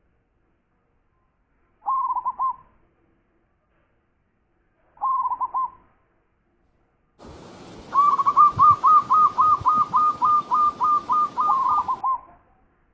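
Zebra dove (perkutut) cooing: two short phrases of quick coos, then, with a hiss behind it, a long run of about fifteen rapid coos at about four a second.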